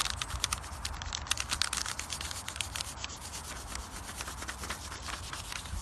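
Crayon being rubbed briskly back and forth over paper laid on a textured surface, taking a rubbing: a dense, irregular scratchy rasping, with a steady low rumble underneath.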